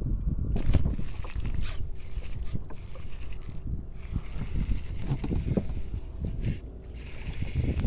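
Wind buffeting the microphone in a low, fluctuating rumble from a kayak on open water, with scattered short knocks and splashes.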